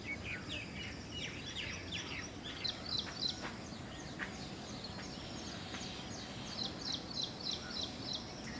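Several small birds chirping, with short quick notes throughout and a fast run of chirps about six to seven seconds in, over a low steady outdoor background hum.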